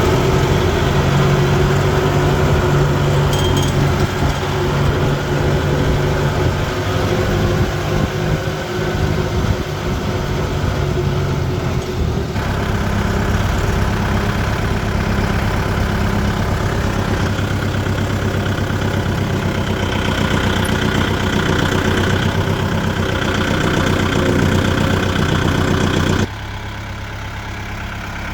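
Kubota tractor's diesel engine running steadily, its tone shifting about halfway through, and dropping suddenly in level near the end.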